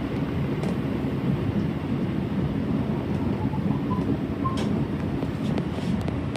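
Electric commuter train running along the line, heard from inside the front car: a steady rumble of wheels on rail, with a few faint clicks and a brief thin squeal a little past the middle.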